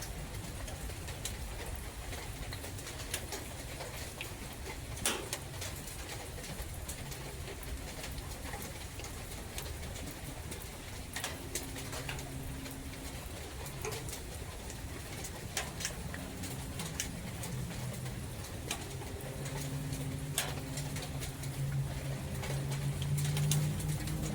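A dove cooing in low, repeated notes that grow louder near the end, over a steady low rumble of forest ambience with scattered sharp ticks like dripping rain.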